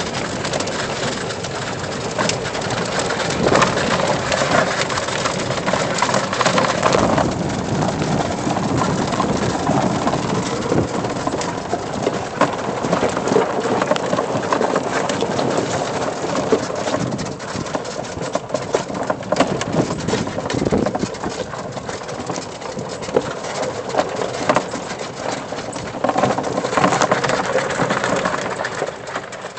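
Lifted 1997 E-Z-GO electric golf cart on 22-inch tires driving along a rough dirt trail: a steady run of rolling noise with many small knocks and rattles as it goes over bumps.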